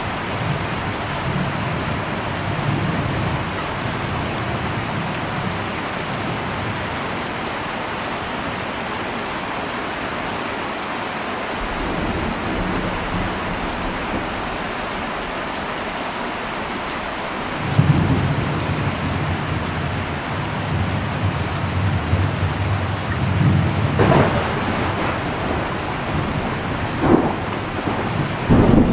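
Heavy rain on an old metal roof, a steady hiss, with thunder rumbling. A stronger roll of thunder starts about eighteen seconds in, and a few sharp cracks come near the end.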